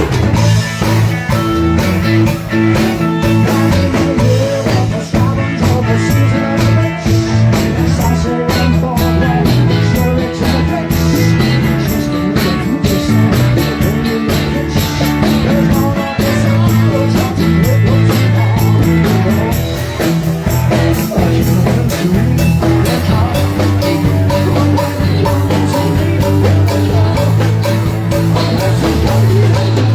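A live band playing rock music, with a prominent bass line, drums and guitar.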